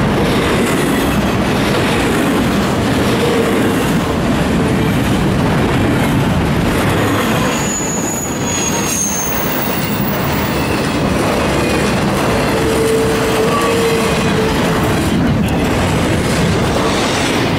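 Norfolk Southern intermodal freight train passing close by: a locomotive at first, then container well cars, with a steady rumble and clatter of wheels on rail. A brief high wheel squeal comes a little before the middle.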